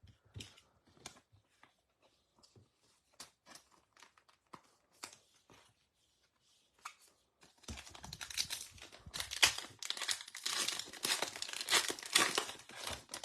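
Light scattered handling clicks, then from about eight seconds in a foil trading-card pack wrapper being torn open and crinkled.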